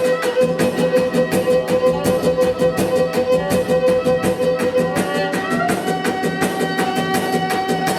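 Lively folk music led by a bowed fiddle over a fast, steady beat. The fiddle holds one long note, then steps up to a higher held note about five seconds in.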